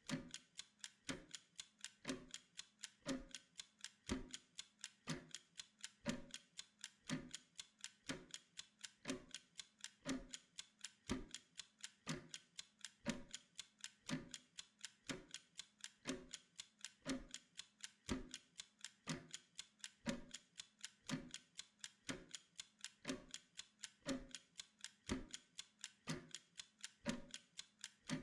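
Mechanical kitchen timer ticking steadily through its countdown: fast, even ticks several times a second, with a heavier tick about once a second.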